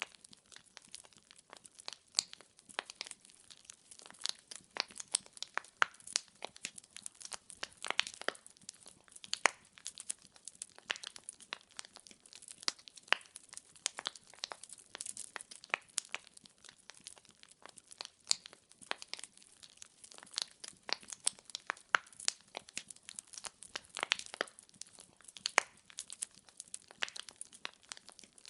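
Wood fire crackling: burning wood gives off many irregular pops and snaps over a faint hiss.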